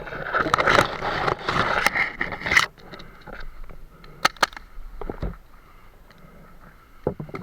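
Rustling and scraping of a player's gear moving close to the microphone for about two and a half seconds, then a few sharp single cracks of paintball markers firing: two close together, one more a second later, and another pair near the end.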